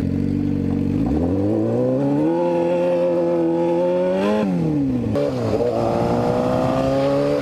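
Motorcycle engine accelerating: its pitch climbs over about a second, holds steady, dips sharply about four and a half seconds in, then climbs again.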